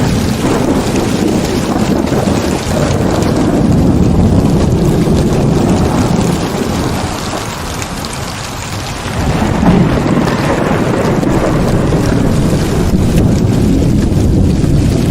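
Heavy rain pouring with a deep rumble of thunder through it. The rumble eases about halfway through and swells again a couple of seconds later.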